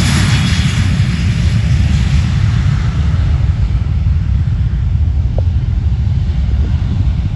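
Aircraft engine roar fading as the plane moves away, a heavy low rumble under a hiss that thins out over the few seconds.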